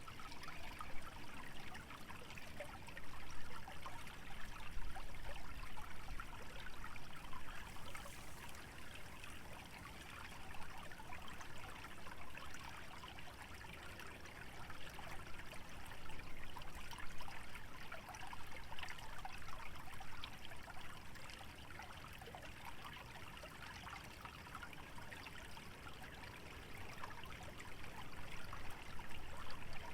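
Small stream trickling through a wetland: a steady, fine babbling of running water that swells a little now and then.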